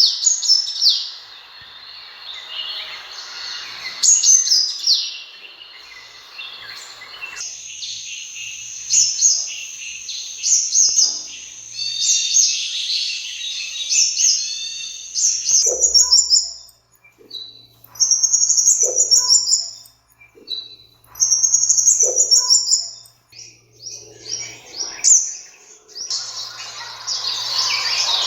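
Sunbirds calling: high, thin chirps and quick twittering phrases, repeated with short gaps. A background hiss under the calls cuts off abruptly about seven seconds in.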